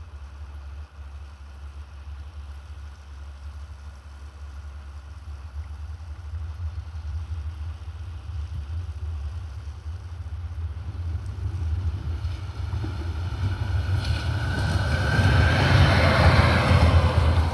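A train approaching on the Campiglia Marittima–Piombino line: a low rumble that builds steadily and is loudest near the end, where a faint rising whine joins it.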